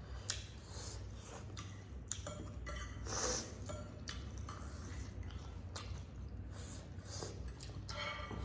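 Close-up eating sounds: scattered wet mouth clicks and chewing, with a short breathy sniff about three seconds in, over a low steady hum.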